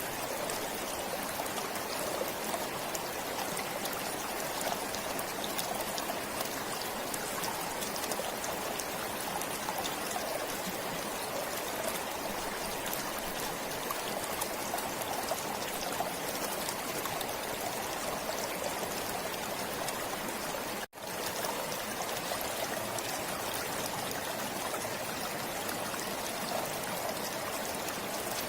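Forest stream flowing steadily. The sound cuts out for a split second about three-quarters of the way through, then carries on unchanged.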